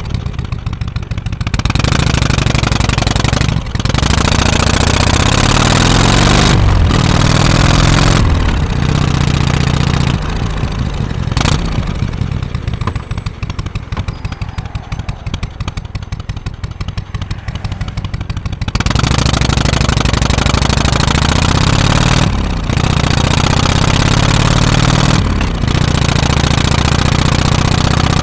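Harley-Davidson FXSTC Softail Custom's 1340 Evolution V-twin under way: it revs up through the gears with a dip at each shift, settles into slow, low revs in the middle where single firing pulses can be picked out, then pulls up through the gears again.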